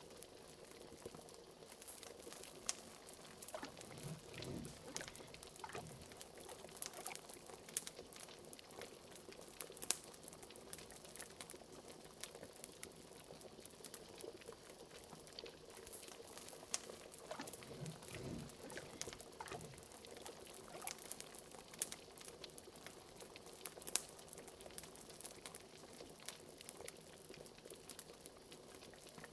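Liquid bubbling and simmering in a pot, under a steady scatter of sharp crackles and pops from a wood fire. A few deeper, gurgling bubbles rise a few seconds in and again past the middle.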